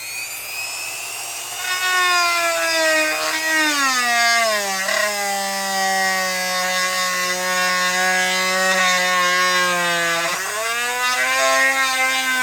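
Handheld electric power tool working a hole in a wooden block: a steady motor whine that drops in pitch about four seconds in as it bogs under load, holds low, then climbs again near the end as the load comes off.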